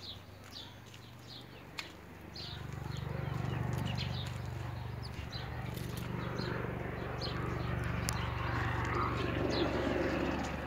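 A small bird chirping, short high notes repeated about twice a second. About two and a half seconds in a low rumbling noise comes in and stays, louder than the chirps.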